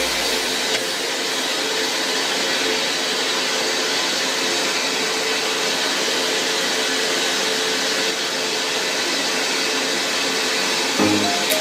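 A motor-driven fertilizer-making machine running steadily: a constant whirring hiss with a steady hum underneath.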